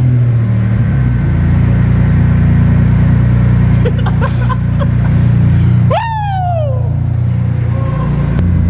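Big-turbo EG33 flat-six in a Subaru STI running on a dyno: a loud, steady low drone. About six seconds in, a short whistle jumps up and then falls away in pitch.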